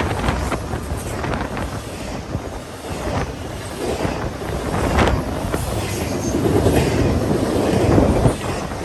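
Long freight train rolling past, a steady rumble with the wheels clicking over rail joints now and then.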